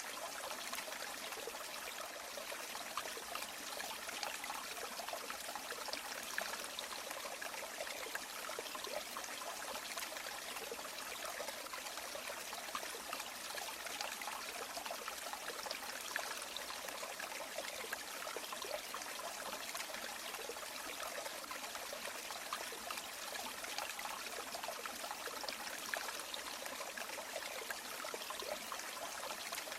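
A river or stream flowing steadily, its water babbling and splashing over rocks with many small trickling sounds.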